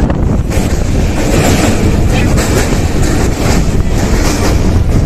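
A train running on its rails, a steady loud rumble and rail noise with wind buffeting the microphone.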